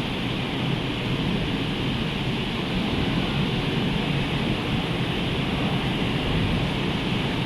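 Rough, storm-driven sea surf: a steady rush of breaking waves with wind.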